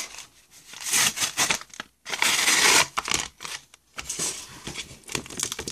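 Pokémon card packaging crinkling and tearing open in several rustling bursts, the longest about two seconds in.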